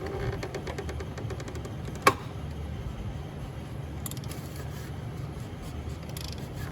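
Socket ratchet clicking in quick runs as a 27mm 12-point socket turns the oil filter housing cap, with one sharp snap about two seconds in, over a steady low hum.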